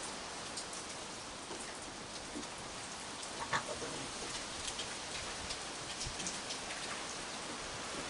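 Steady rain falling, a constant hiss with scattered drops ticking on nearby surfaces and a few louder taps about halfway through.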